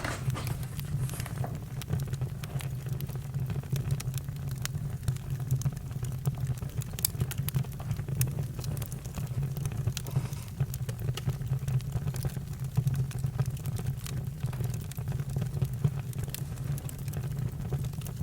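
Campfire crackling: many scattered sharp pops and snaps over a steady low rumble.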